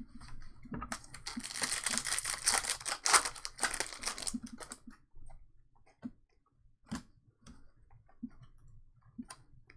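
Foil trading-card pack wrapper being torn open and crinkled for a few seconds, followed by light clicks and taps of cards being handled.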